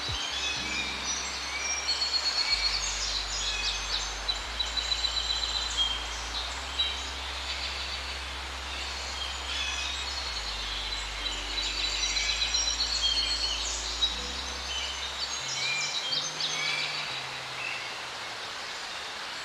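Forest ambience: many small birds chirping and trilling, busiest around 2–4 s and 11–14 s in, over a steady even hiss. Underneath, low sustained bass notes shift pitch every few seconds and stop about 15 seconds in.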